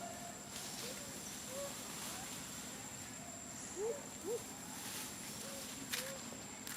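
Monkeys giving about six short, separate squeaky calls, each a quick rise and fall in pitch, with a sharp click near the end.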